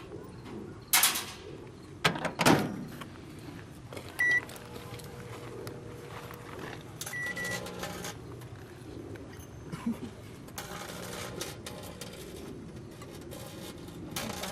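Two clatters of handling, then a microwave oven's keypad beeping: a short beep about four seconds in and a longer one about seven seconds in. After that the microwave runs with a low, steady hum.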